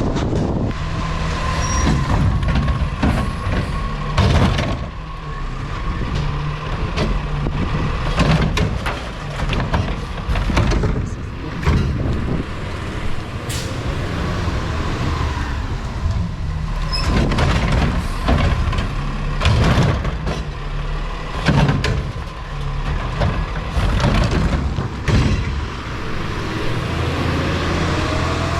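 Peterbilt 520 Heil Curotto-Can recycling truck running, its engine note steady, with repeated sharp clangs and knocks throughout and a rising whine near the end.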